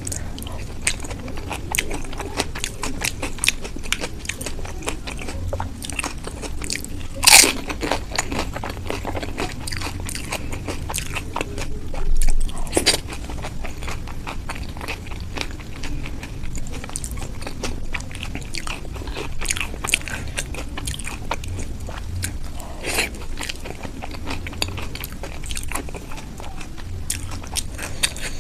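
Close-miked eating: crunchy bites and chewing with dense, irregular crackles, and two louder crunches, one about seven seconds in and one about twelve seconds in.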